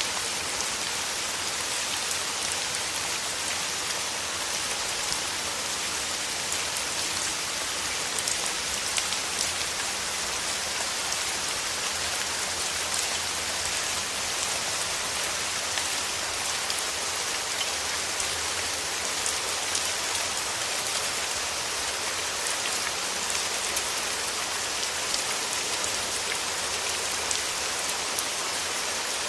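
Steady rain falling on rose petals: an even, unbroken hiss of drops with faint individual drop ticks scattered through it.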